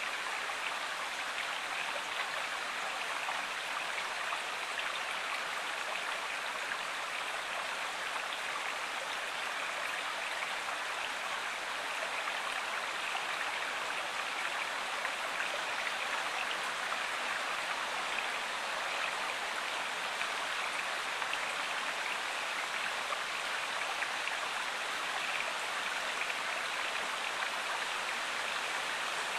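River water flowing, a steady even rushing with no breaks or separate splashes.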